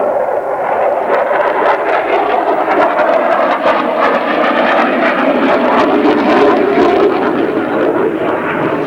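Dassault Mirage 2000 fighter's single SNECMA M53 jet engine, loud and steady, with a crackle through it as the jet flies its display.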